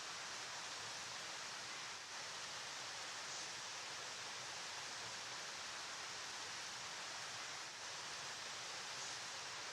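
River water flowing: a steady, even rush with no changes.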